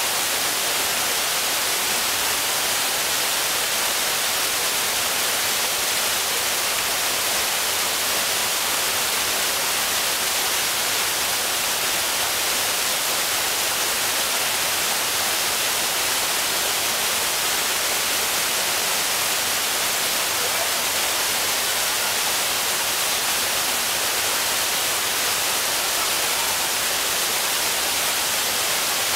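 Waterfall: a steady, even rush of falling water, brightest in the high hiss and unchanging throughout.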